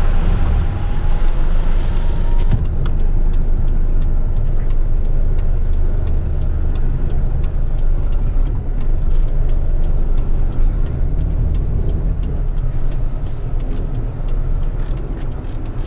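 Heavy rigid truck's diesel engine running steadily as the truck drives slowly, heard from inside the cab, with scattered light clicks.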